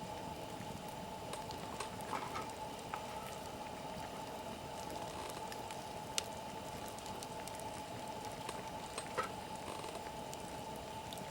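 Wood fire burning with a steady hiss and scattered crackles and pops, the sharpest pop about six seconds in.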